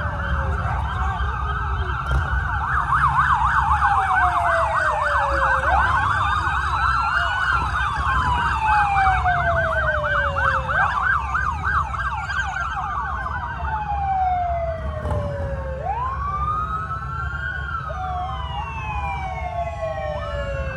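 Several emergency vehicle sirens sounding at once, overlapping. Slow wails fall in pitch and jump back up every few seconds, and a fast rapid yelp runs through the first half, all over a steady low rumble.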